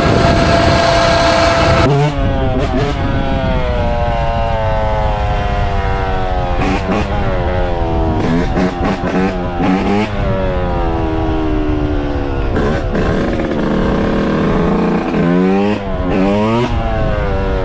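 A small motorcycle engine being ridden hard, revving up sharply and easing off again several times as it changes speed. The first two seconds hold a different, steady engine tone, which cuts off abruptly.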